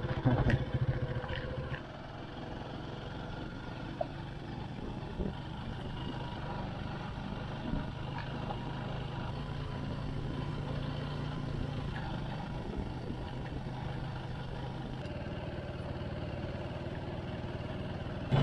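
Motorcycle engine running while riding, louder for the first couple of seconds and then holding steady.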